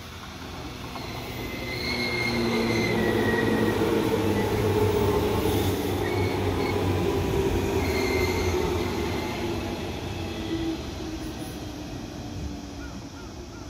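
A green JR West 117 series electric train passing close by on the track beside the platform. Its running noise builds over the first few seconds, is loudest for several seconds as the cars go by, then fades away. Short high-pitched squeals come about two seconds in and again around eight seconds.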